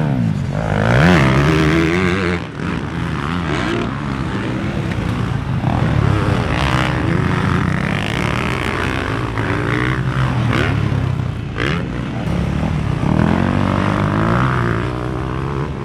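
Dirt bike motor running as it is ridden around the track, its drone rising and falling in pitch with the throttle.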